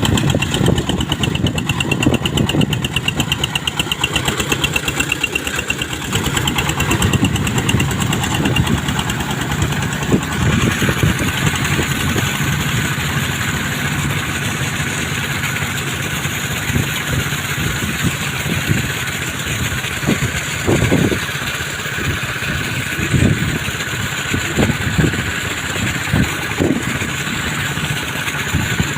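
Small engine of a jet boat running steadily. Its firing pulses are plain for about the first ten seconds, after which it settles into a smoother, hissier run with a few low thumps.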